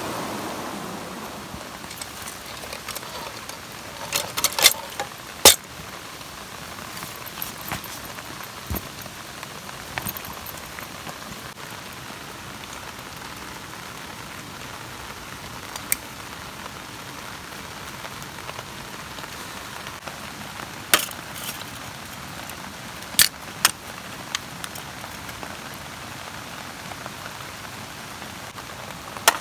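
Steady rain pattering on a camping tarp, with a few scattered sharp taps standing out, two small clusters of them about four seconds in and again around twenty-three seconds.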